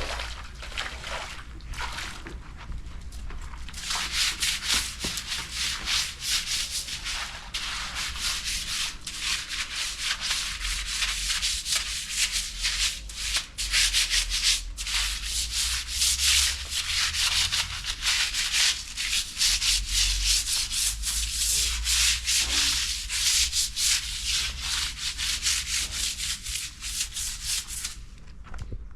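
Rapid, continuous scraping and brushing strokes on a surface, louder from about four seconds in and stopping near the end.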